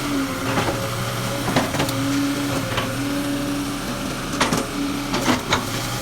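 Excavator running: a steady engine hum with a higher hydraulic whine that comes and goes in stretches, and several sharp clanks scattered through.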